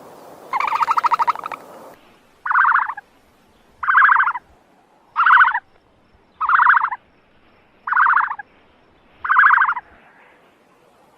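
A farm animal calling over and over: six short, rapidly pulsed calls of about half a second each, evenly spaced roughly a second and a half apart, after a noisier call at the start.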